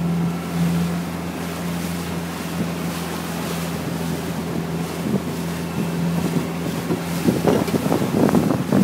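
Motorboat engine running at a steady pitch while under way, with wind buffeting the microphone, which grows rougher and gustier near the end.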